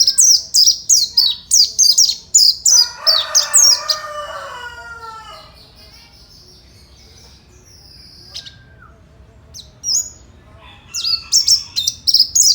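White-eye (pleci) singing a fast run of high, sharp, falling chirps, with a lower falling call over it about three seconds in. After a pause of a few seconds with only scattered chirps, a second fast run starts near the end.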